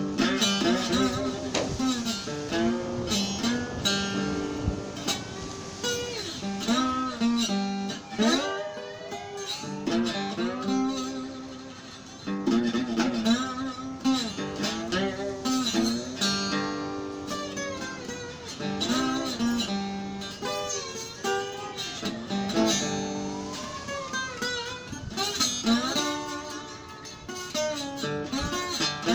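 Acoustic guitar playing a blues tune, plucked notes with several sliding glides up and down in pitch.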